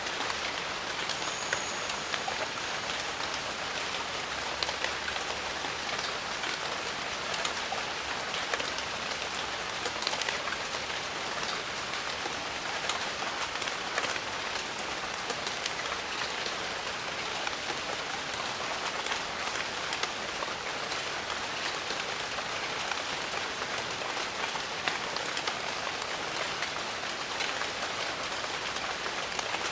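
Steady rain falling on jungle foliage, a dense even hiss with many separate drop hits.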